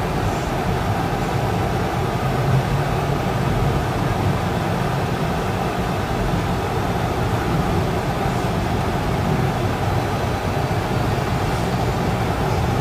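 Steady engine and road noise heard inside a car's cabin while driving, with a low, even hum.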